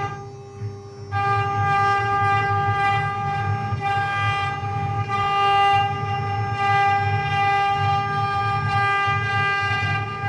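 Mini CNC machine running, giving a steady high-pitched whine over a low hum; the whine drops out briefly and comes back about a second in.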